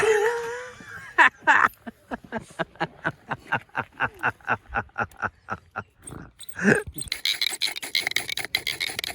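Friction fire-starting bow drill being worked back and forth, wood rubbing against wood in even strokes of about four a second as the spindle is driven to make an ember. A short voice comes at the very start.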